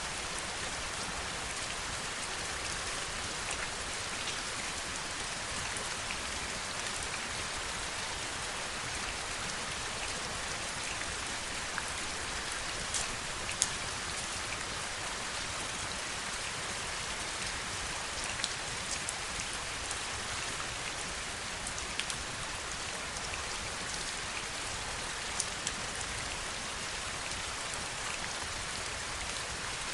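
Steady heavy rainfall, an even hiss with scattered sharper drop ticks, a few louder ones about 13, 18, 22 and 25 seconds in.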